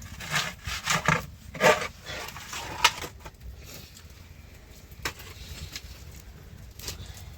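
A cluster of knocks and scrapes in the first three seconds, then a couple of single clicks.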